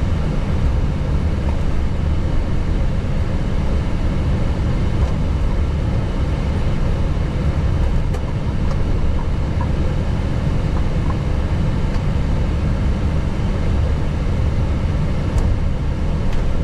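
Steady low rumble inside an Airbus A321neo cockpit: engine and airflow noise, even throughout.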